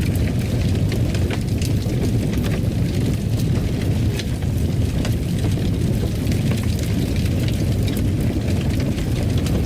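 Fireplace crackling: a steady low rumble of the burning fire with frequent small, sharp crackles and pops scattered through it.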